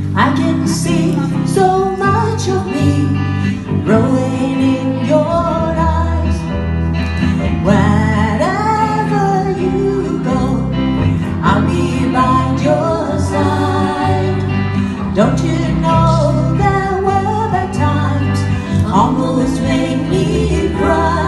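Live band playing the instrumental introduction of a pop ballad: a melody line over a guitar and bass accompaniment.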